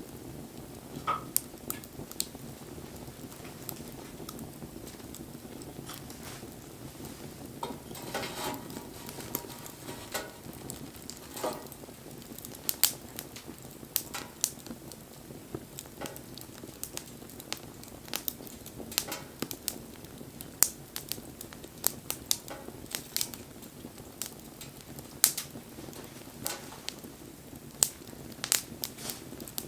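Wood fire burning, crackling with frequent irregular sharp pops and snaps over a steady low hiss of the flames.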